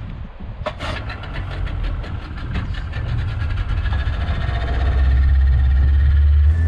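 Small fishing boat's engine running with a steady, even beat, getting louder and heavier about halfway through as it picks up speed.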